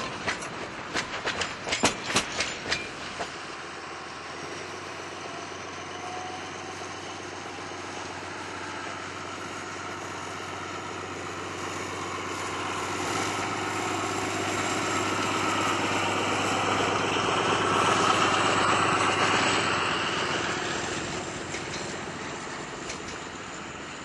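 Narrow-gauge train running on the rails: a quick run of wheel clicks over rail joints in the first few seconds, then a steady rolling rumble that grows to its loudest about 18 seconds in and fades again.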